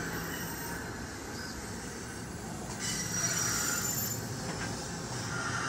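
NJ Transit commuter train rolling by with a steady rumble. Faint, thin wheel squeals come and go, most of them about three seconds in.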